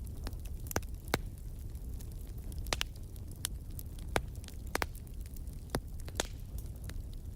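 Wood fire burning in a fireplace: irregular sharp pops and crackles over a low steady rumble.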